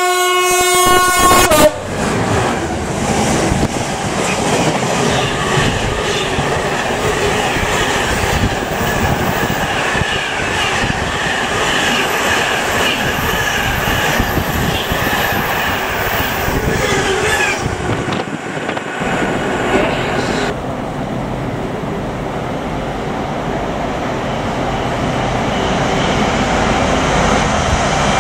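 A Class 66 diesel freight locomotive sounds a short horn blast, then a train of empty container flat wagons rushes past with steady wheel-on-rail noise and clatter. The noise drops to a lower, steadier rumble about two-thirds of the way through.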